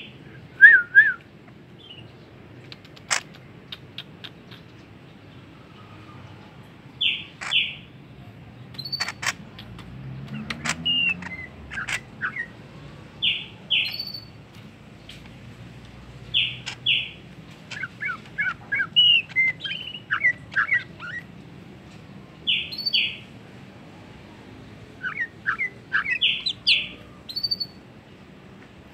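Pet bird calling: short double chirps repeated every three seconds or so, with quicker bursts of twittering notes in between and a few sharp clicks.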